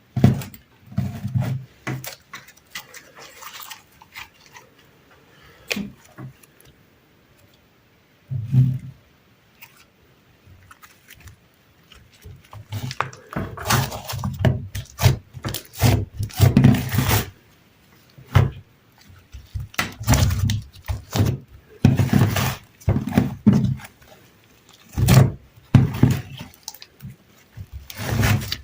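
Sticky slime being worked, with irregular wet squelches and crackling pops. They come sparsely for the first few seconds and thick and fast from about halfway on.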